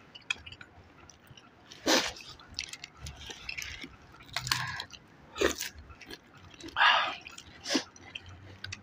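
Close-up eating sounds from a meal of tom yum soup with stewed pork leg and rice: chewing and mouth noises, scattered sharp clicks, and a few short louder bursts.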